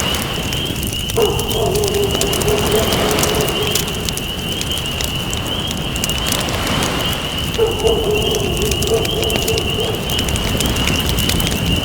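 Campfire crackling, with fine pops throughout, over a steady wash of ocean waves. A constant high whine runs through it, and a low wavering hoot-like call comes twice, about a second in and again near eight seconds.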